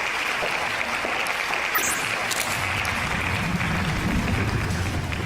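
Dense, even, applause-like noise, with a low rumble swelling in about halfway through.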